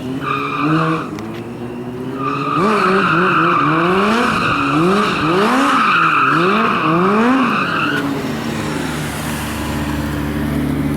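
Motorcycle drifting: the rear tyre squeals in a short burst, then steadily for several seconds while the engine revs up and down over and over. The squeal stops about eight seconds in, leaving the engine running more evenly.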